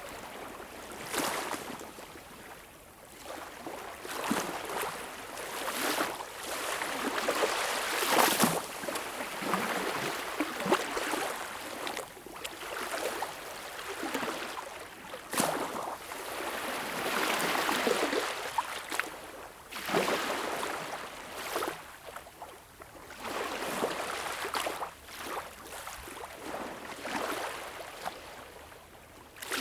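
Sea waves washing in: a rush of water that swells and fades every few seconds, with short sharp splashes now and then.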